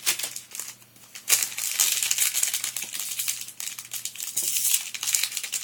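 Foil Yu-Gi-Oh booster pack wrapper being crinkled as it is opened. A dense run of crackling starts about a second in and keeps going.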